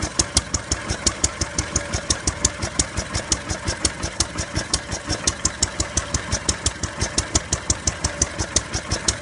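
Ruston & Hornsby class PT single-cylinder stationary engine running at a steady speed, its firing beat coming evenly several times a second with a sharp click on each stroke.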